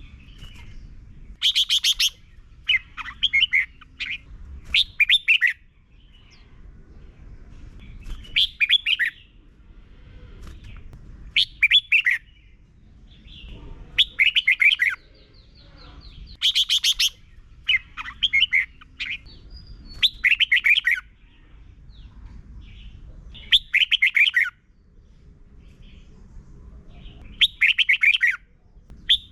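Red-whiskered bulbul singing short whistled song phrases, each under a second, repeated every two to three seconds, over a faint low rumble.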